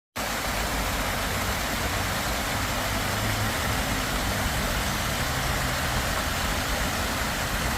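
Water fountain splashing steadily, an even rushing hiss.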